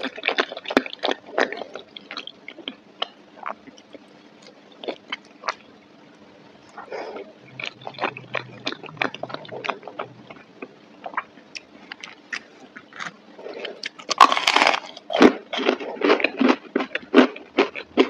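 Close-miked chewing of soft macaroni and cheese, with many small wet mouth clicks. About fourteen seconds in, a louder crunchy bite into a breaded chicken nugget, followed by crunchy chewing.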